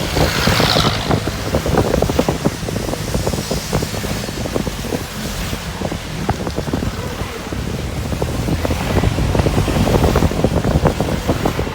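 Rain pattering on a moving car with many sharp ticks, over a heavy low rumble of road and wind noise.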